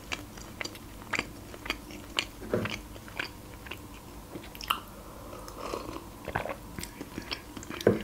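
Close-miked mouth sounds of chewing a soft iced cinnamon roll: small wet clicks and smacks every half second or so. About halfway through comes a sip from a mug.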